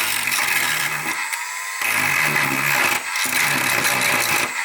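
Battery-powered Dremel 8220 rotary tool running at low speed with a small grinding wheel, grinding small protruding pieces off a part in three spells of about a second each.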